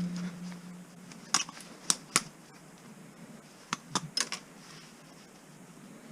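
A low ringing from a just-struck metal part dies away over the first second. Then come a few sharp, light clicks and taps in two small clusters, as metal scrap parts are handled.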